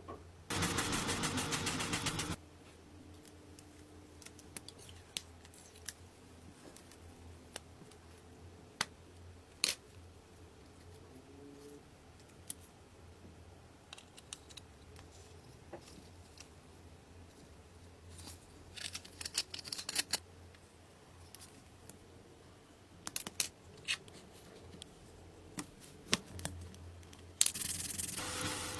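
Workshop work sounds: a loud, noisy power or air tool runs for about two seconds near the start and again near the end, with scattered clicks and taps from handling tools and parts in between.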